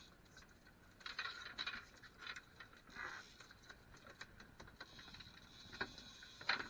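Scattered light clicks and rattles, in small clusters with a sharper one near the end, over a faint steady high-pitched whine.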